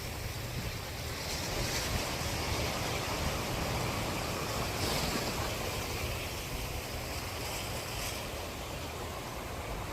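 Sea waves washing onto the shore in a steady hiss that swells and eases, with wind rumbling on the microphone.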